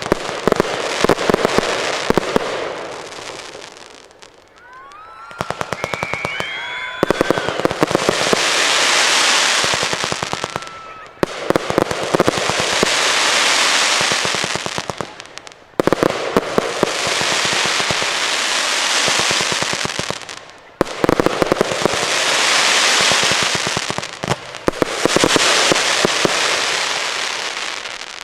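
Aerial fireworks going off in repeated waves: volleys of sharp bangs, each wave trailing into a long, dense crackling hiss for a few seconds before the next one.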